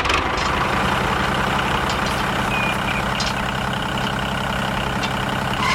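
Tractor engine running steadily at an even pace, a low hum under a rough mechanical noise.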